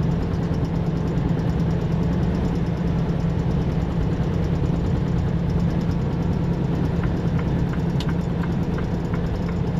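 Semi-truck's diesel engine running steadily with road noise, heard from inside the cab at highway speed, with a light click about eight seconds in.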